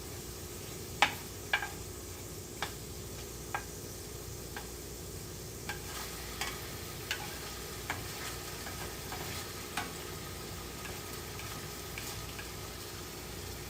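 A ramen stir fry sizzling in a pan as it is stirred, with scattered sharp clicks of the utensil against the pan, the sharpest about a second in.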